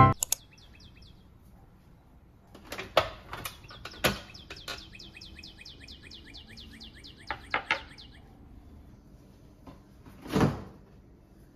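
A small bird chirping in fast runs of short, falling notes, with a few sharp clicks in between and a single louder thud near the end, like a door or cupboard.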